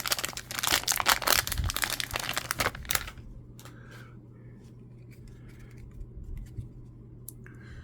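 Foil wrapper of a Topps baseball card pack torn open and crinkled for about three seconds, then only faint light rustles as the cards are handled.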